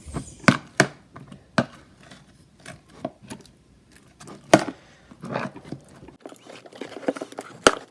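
Slime and white glue being stirred in a bowl, the stirring utensil knocking sharply against the bowl several times at irregular intervals, with softer scraping between the knocks.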